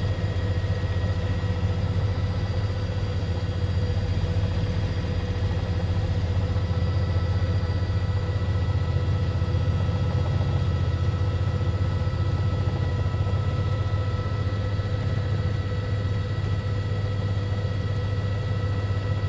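Steady drone of a news helicopter's engine and rotor, heard from inside the cabin, unchanging throughout.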